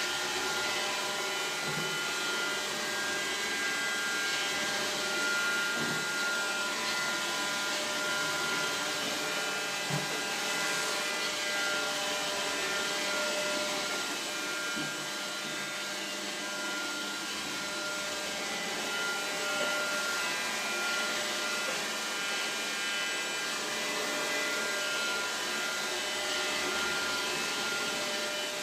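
Roomba robot vacuum running on a hardwood floor: a steady whir of its motors with a constant whine, and a few faint knocks now and then.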